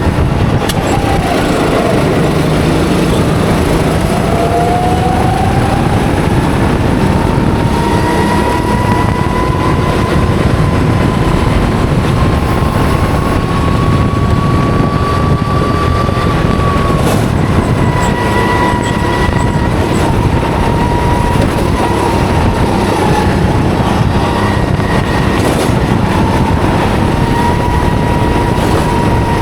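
Go-kart engine at racing speed, heard from the driver's seat. Its pitch drops about two seconds in as the kart slows, then climbs steadily for a long stretch of acceleration, dips a little around the middle and holds fairly level after that, over a constant rushing noise.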